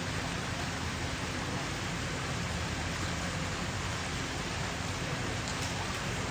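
Steady, even hiss of background noise, like rain or rushing air, with no distinct knocks or voices standing out.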